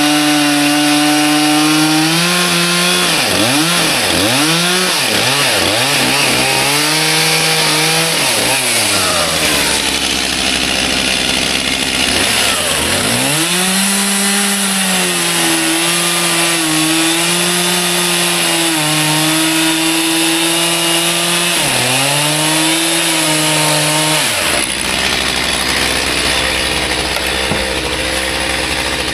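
Stihl MS 361 two-stroke chainsaw cutting ash at high revs, its pitch dipping and recovering repeatedly as the chain loads in the wood. In the last few seconds it drops to a lower, steady idle.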